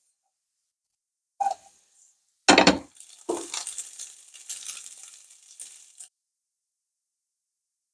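Kitchen clatter: a light click, then a louder clinking knock and a second one, followed by a short hissing, rattling stretch that fades out.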